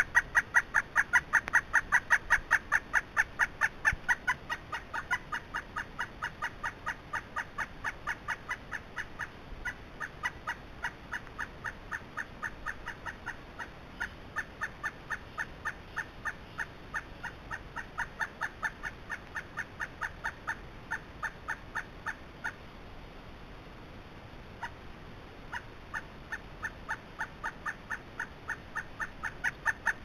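A bird calling a long, even series of short, clipped notes, about five a second, louder at first, with a break of a few seconds near the end before the series starts again.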